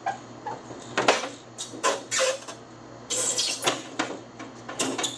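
Scattered knocks and clicks, with a scraping stretch about three seconds in, from the metal parts and window track of an old pickup truck door being handled.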